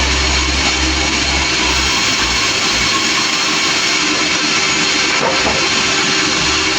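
A sawmill running: steady, loud machine noise across the whole range, with a deep low drone under it for the first part that drops away about a third of the way in.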